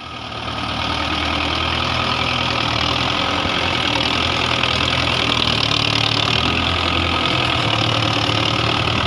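Belarus 510 tractor's diesel engine running steadily at a low, even speed, rising in over the first second.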